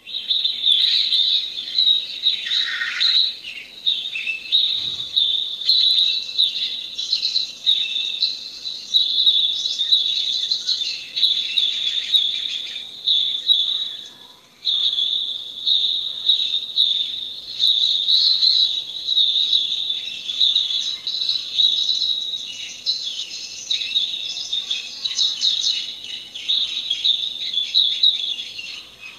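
Outdoor nature chorus: a dense, steady, high-pitched trilling of insects with scattered bird chirps and calls over it, dropping away briefly about halfway through.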